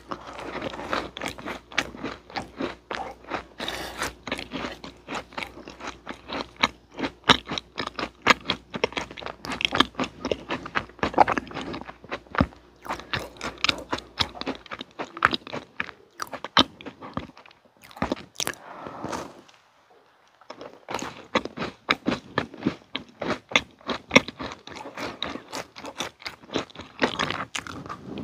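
Close-miked chewing of macarons: the crisp shells crackle and click densely while they are chewed with the soft cream filling. There is a short pause about two-thirds through, then a fresh bite into a pink macaron near the end.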